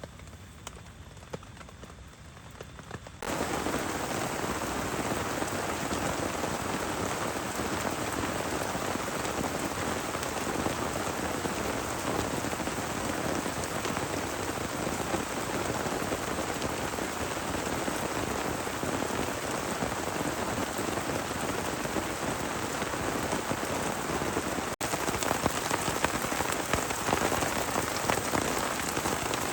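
Heavy rain falling in a dense, steady patter. It starts abruptly about three seconds in, after a quieter stretch with a few faint knocks, and comes in slightly louder again after a sudden break near the end.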